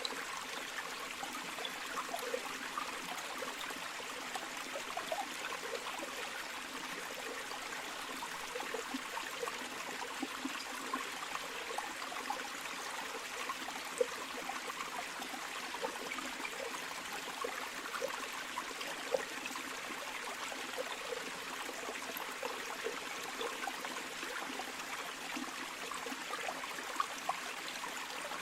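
A small river or stream flowing steadily over stones, with light babbling and gurgling.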